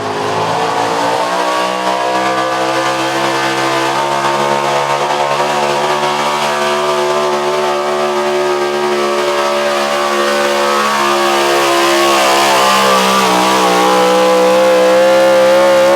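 Pulling truck's engine held at high revs under load, running steadily, with its pitch and loudness creeping up towards the end.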